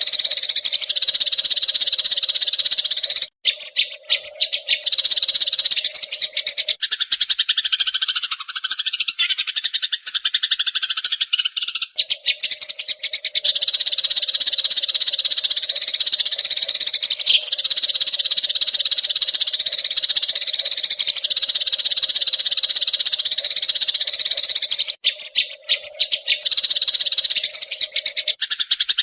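Eurasian tree sparrows chirping in a dense, continuous chorus of high chatter, with a steady low tone underneath. The chatter breaks off abruptly a few seconds in and again near the end.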